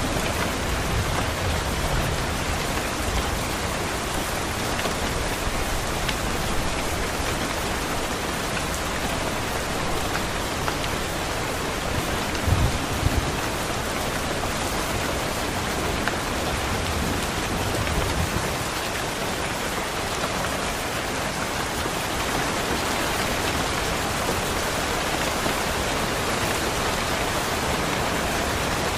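Steady rain falling, an even hiss of drops on surfaces, with a brief cluster of low thuds about twelve seconds in.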